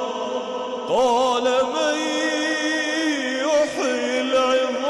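A man chanting Quran recitation in melodic tajweed style. A new phrase begins about a second in with long held notes and wavering ornaments, trails off past the three-second mark, and the voice resumes near the end.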